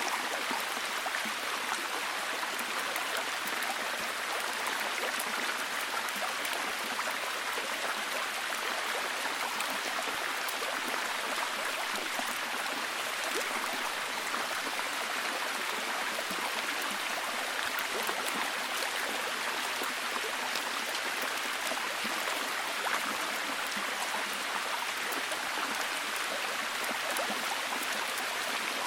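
Steady, heavy rain falling, an even hiss with fine pattering of drops.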